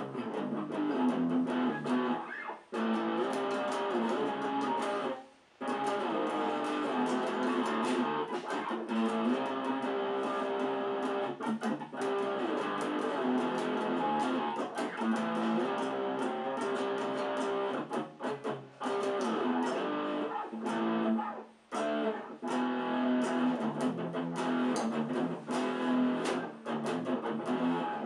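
Cort X-series electric guitar playing sustained chords and riffs, with short breaks about three and five seconds in and again past the twenty-second mark.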